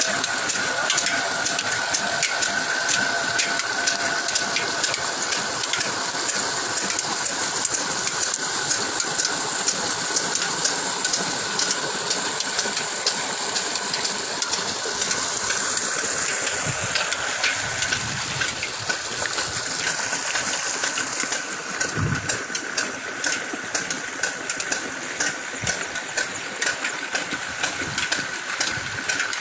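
Antique engine running steadily, under a constant hissing rush with many fast, fine ticks and a steady high tone.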